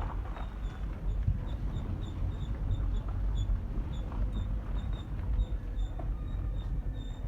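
Chevrolet Cruze 1.6 station wagon rolling slowly in first gear, with a short high-pitched squeak repeating evenly about three times a second over the low rumble of the car moving. The squeak's cause is unknown: suspension, wheels and brakes were checked and found fine, and it began after the catalytic converter was removed and a flame arrester fitted.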